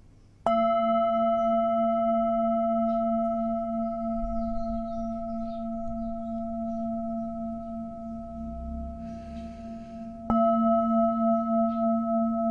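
Singing bowl struck twice, about ten seconds apart, each strike ringing on as a long steady hum that slowly fades, with a slow wobble in the ring after the second strike.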